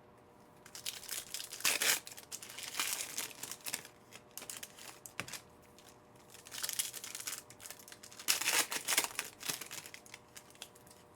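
Trading-card pack wrappers being crinkled and torn open by hand, in several separate bursts of crinkling and tearing.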